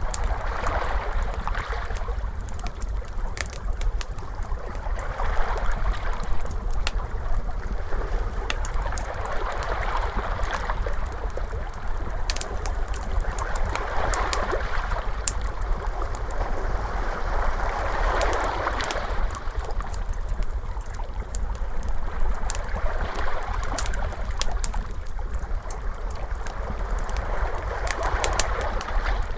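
Wood fire crackling with scattered sharp pops, over ocean waves washing in and out every four to five seconds and a steady low rumble.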